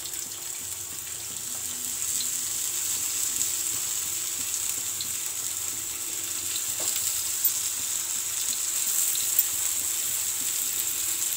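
Spice-coated potato slices sizzling in hot oil on a tawa as more slices are laid in one by one, a steady high hiss that grows a little louder about two seconds in.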